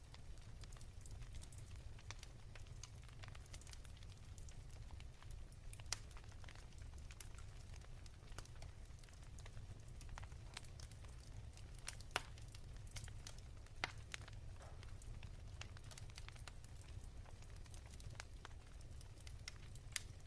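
Wood fire in a fireplace crackling softly: irregular small pops and snaps, a few sharper ones now and then, over a steady low rumble.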